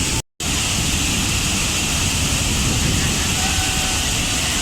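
Waterfall: a steady rush of falling water that drops out to silence for an instant just after the start.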